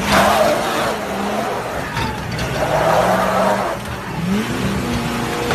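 Truck engine revving, its pitch rising and falling several times, with two rough rushing bursts about a second long, one at the start and one around three seconds in, as the truck strains against the tow.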